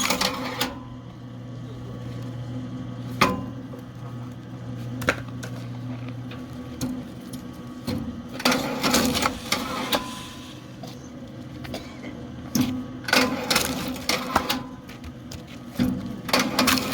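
Electric motor of a KM Grand SF-10 belt-driven log splitter running with a steady hum. A few sharp knocks come in the first few seconds, then three loud bursts of cracking and crunching from about halfway to the end as the wedge splits oak rounds.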